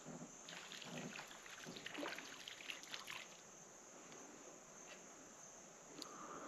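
Faint small water splashes and ticks, mostly in the first three seconds, then quieter.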